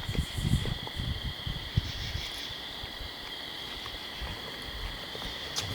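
A steady chorus of night insects: a continuous high trill. Low thuds and rustling come through the first two seconds and again near the end.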